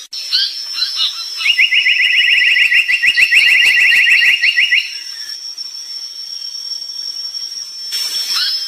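Brown tali pocong bird singing: a few short whistled notes, then a fast rattling trill of rapidly repeated rising notes, about ten a second, lasting some three seconds. A steady high-pitched whine runs under it.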